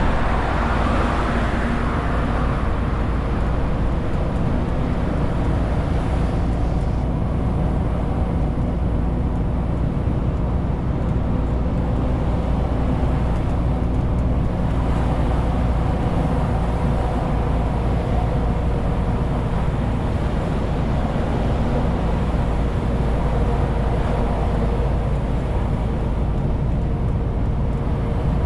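Renault T520 truck's diesel engine running steadily, with road and tyre noise, while the truck is driven loaded to 40 tonnes.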